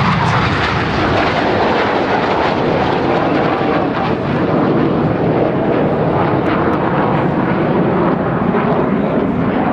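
Loud, steady jet noise from a formation of BAE Hawk T1 jets flying past.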